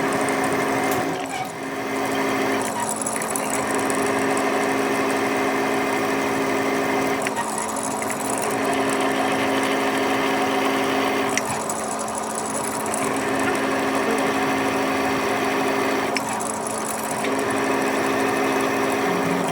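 A metalworking machine tool running steadily with a hum. Its cutting noise changes every four to six seconds, as if passes or strokes on the work are starting and ending.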